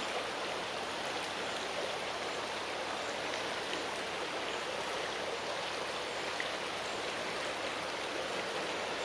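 Strong wind rushing through the foliage of a large tree: a steady, unbroken rustling hiss.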